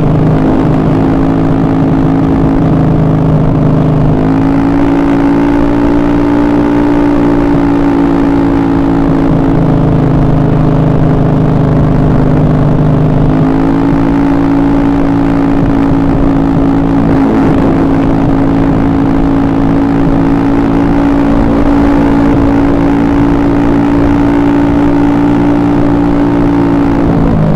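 Freshly rebuilt Honda Beat scooter engine running steadily. It is held at a higher speed from about 4 s to 9 s in and again from about 13 s until just before the end, dropping back to a lower speed in between.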